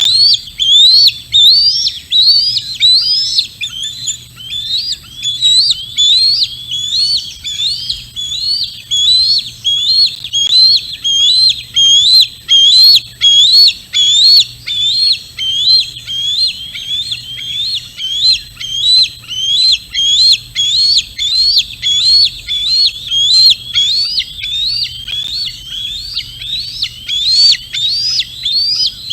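A bird calling over and over, a high note that rises then falls, about two notes a second without a break.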